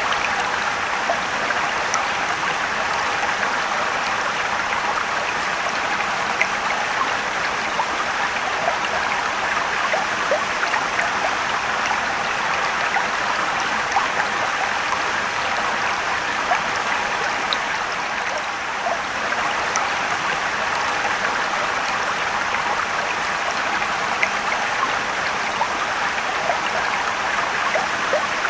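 Steady rushing and trickling of a mountain stream and waterfall, with small splashes and drips scattered through it.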